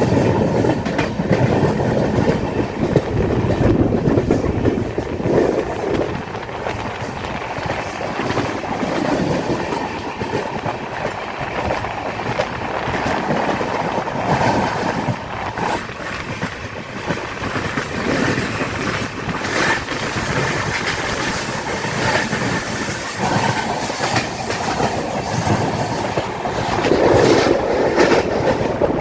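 Passenger train running along the track, heard on board: a steady rumble of wheels on rail with the clickety-clack of rail joints.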